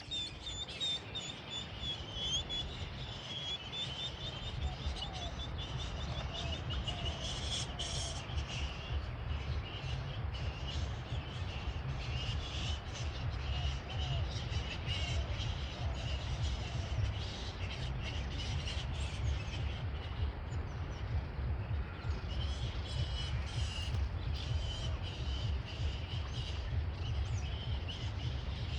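Several birds chirping and calling over a steady low rumble.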